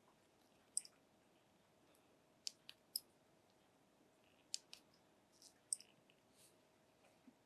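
Scattered sharp clicks and taps, about seven of them at irregular intervals, as a smartphone and its small hard parts are handled.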